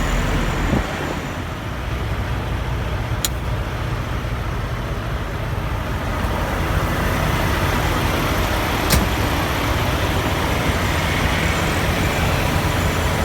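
Volvo VNL 860 semi truck's diesel engine idling steadily, with two sharp clicks about three and nine seconds in.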